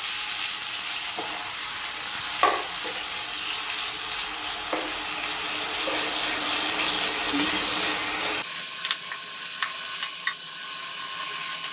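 Slices of dried tofu frying in hot oil in a nonstick pan, sizzling steadily, with a wooden spatula scraping and knocking now and then as it turns them.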